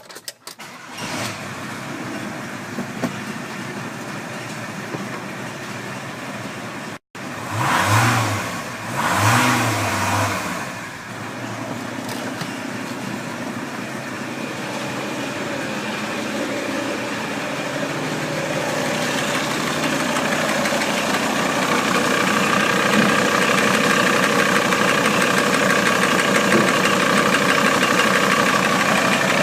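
Volkswagen ACV 2.5 TDI five-cylinder diesel engine being test-run: it starts up and idles, is revved up and let fall back twice about eight and ten seconds in, then settles back to a steady idle that grows gradually louder.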